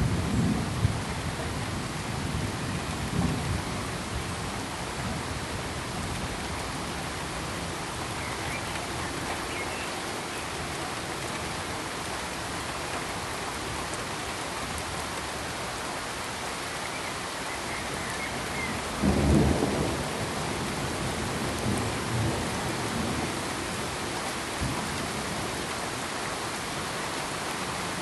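Steady, even hiss of broadband noise, with low rumbles rising out of it: a short one at the start, a small one a few seconds in, the loudest about two-thirds of the way through and a few weaker ones just after.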